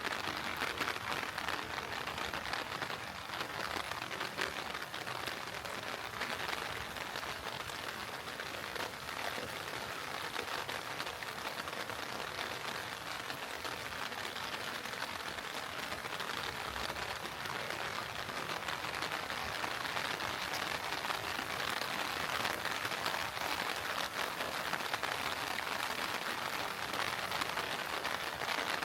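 Steady heavy rain falling, a dense, even patter of many drops.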